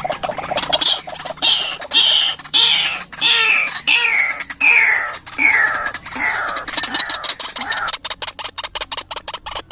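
White-breasted waterhen (ruak-ruak) calling: a run of loud, repeated notes, each falling in pitch, about two a second. The calling stops about eight seconds in and is followed by fast crackly ticking.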